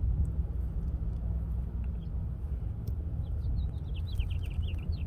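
A steady low rumble with a bird chirping in a quick run of short notes, starting about three seconds in.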